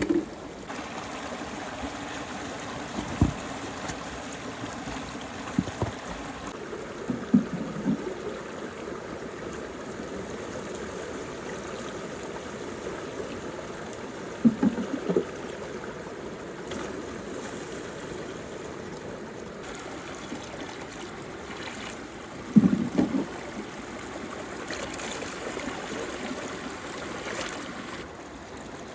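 Water swirling and draining down a whirlpool hole in mud, a steady rushing, with several short plops as stone pieces drop into the vortex, the loudest about three quarters of the way through.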